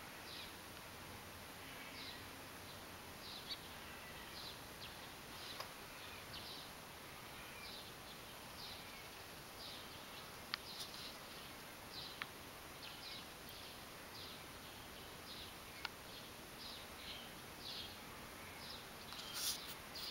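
Faint outdoor ambience with a small bird chirping over and over, short high chirps about once or twice a second, a few sharp ticks between them and a louder burst near the end.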